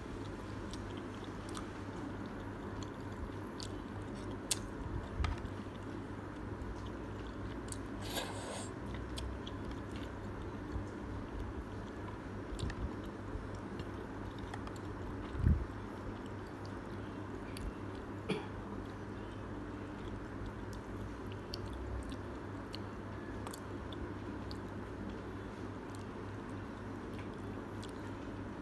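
A person chewing a mouthful of thick udon noodles with the mouth closed, with light scattered clicks of chopsticks against a plastic bowl and a soft thump about halfway through.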